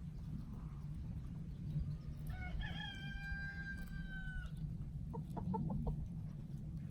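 A rooster crows once, a long slightly falling call lasting about two seconds, followed about a second later by a quick run of short clucks from the flock, over a steady low rumble.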